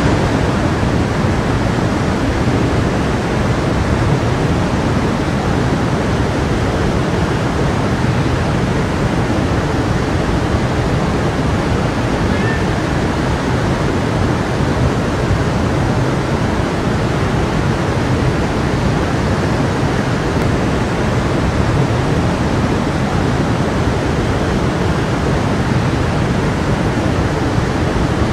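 Stream water flowing over rocks, a steady, even rushing.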